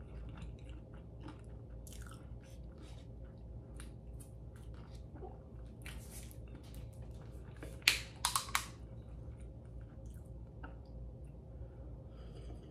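Close-up mouth sounds of someone chewing soft pancakes, with small wet clicks. A little past the middle a thin plastic water bottle crackles loudly a few times as it is handled and opened, and it is being drunk from near the end.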